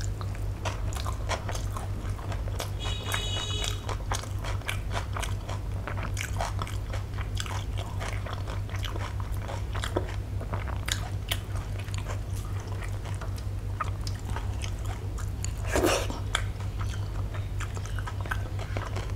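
Close-up chewing and lip smacking of a mouthful of milk-soaked rice, with soft, irregular clicks and squishes of fingers mixing rice on a steel plate. A steady low hum runs underneath.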